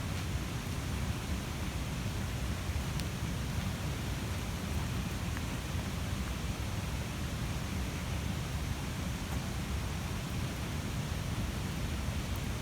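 Large wood campfire burning, a steady low rush of flames with a few faint crackling pops.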